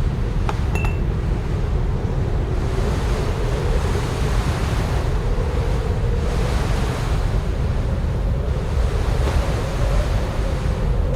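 Strong wind blowing in gusts, swelling every few seconds, with a low wavering howl running under it.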